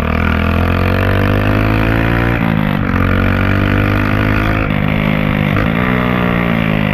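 Honda CG 160's single-cylinder engine running through a homemade drink-can exhaust tip, loud, accelerating with its pitch climbing. The pitch drops sharply at an upshift about two and a half seconds in and again near six seconds, then climbs again.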